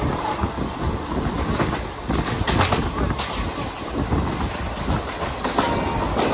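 Passenger train coaches on the move, heard from an open coach doorway: a steady rumble of wheels on the rails with clickety-clack over the rail joints. A cluster of sharper clacks comes about two and a half to three seconds in, as the wheels cross points in a yard.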